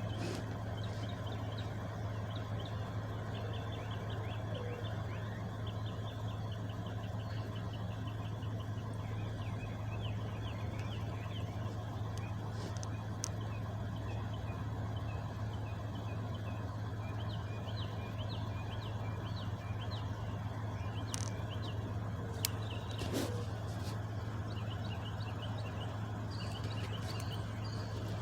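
Truck engine idling with a steady low hum, while small birds chirp repeatedly in the background; a couple of brief clicks come about three-quarters of the way through.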